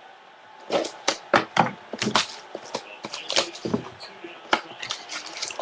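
Hands opening and handling cardboard trading-card boxes: a string of irregular sharp clacks, taps and scrapes, starting just under a second in.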